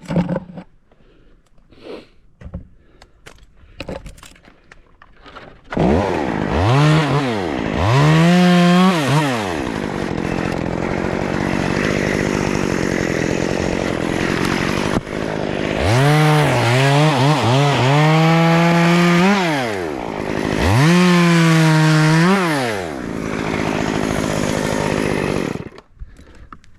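Two-stroke chainsaw starting up about six seconds in, revved up and down in quick blips several times with steadier running between, then shut off abruptly near the end.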